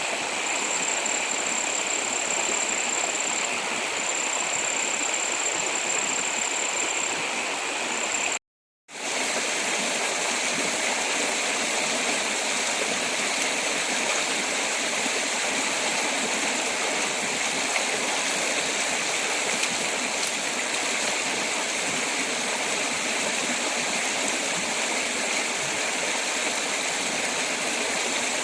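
Steady rushing of flowing stream water, an even wash of noise. In the first third a high, thin steady tone sounds over it, broken by short gaps. About eight and a half seconds in there is a brief cut to silence.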